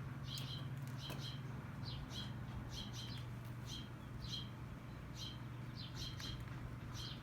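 Small bird chirping: short, high chirps repeating evenly about twice a second, over a steady low hum.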